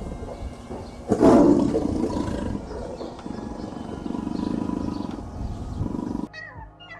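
A large animal roaring: a loud roar about a second in that trails off, then a lower, steadier growl that cuts off suddenly about six seconds in. Brief high gliding calls begin just before the end.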